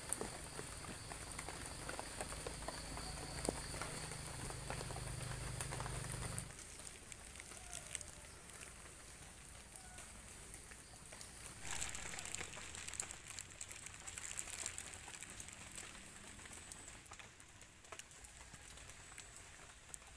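Wet forest ambience in light rain: scattered drips and patter on leaves. For the first six seconds or so a steady high buzz and a low hum run under it, then stop abruptly. After that only quieter drips remain, with a brief louder rush of patter a little past the halfway point.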